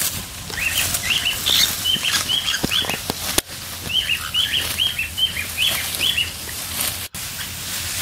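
A small bird calls in two quick runs of short chirps, about four a second, over the rustle of ripe rice stalks being walked through and cut by hand with a sickle.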